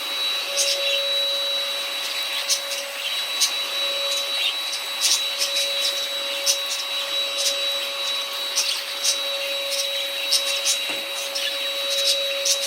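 Inse cordless vacuum cleaner running on high with a steady motor whine, with frequent irregular sharp clicks of bird seed rattling into it. The owner finds its suction too weak to pick up the smaller seed.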